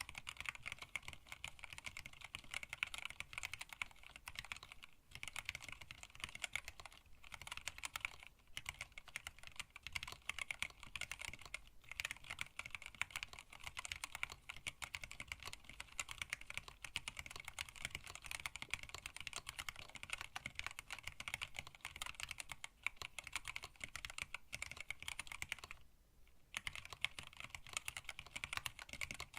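Fast, continuous typing on a hand-wired split mechanical keyboard with Tealios linear switches, blank PBT keycaps and an acrylic case, with a short pause in the keystrokes near the end.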